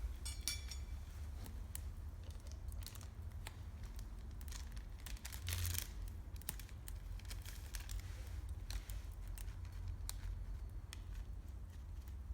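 Wood campfire crackling: irregular sharp pops and snaps, with a denser burst of crackle about halfway through, over a steady low rumble.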